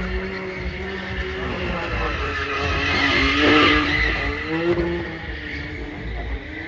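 Car engine revving up and down while tyres squeal and skid, loudest about three to four seconds in.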